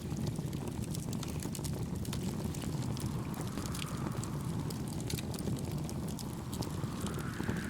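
Campfire wood crackling and popping in frequent sharp snaps over a steady low rumble of wind and gentle waves, with two soft swells of surf.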